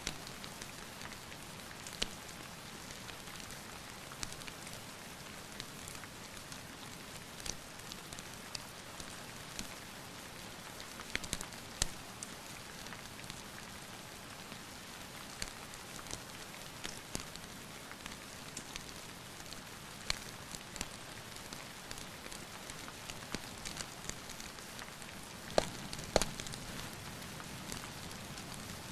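Steady rain hiss with a wood fire crackling, scattered sharp pops, a few louder ones near the end.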